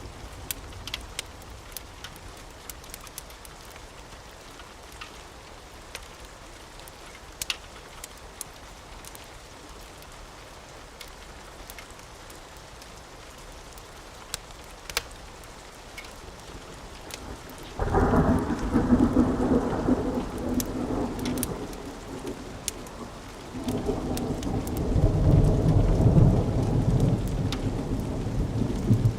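Steady light rain with scattered sharp clicks, then thunder: a rumble breaks in suddenly about 18 seconds in and eases off. A second, heavier roll builds about 24 seconds in and is loudest a couple of seconds later.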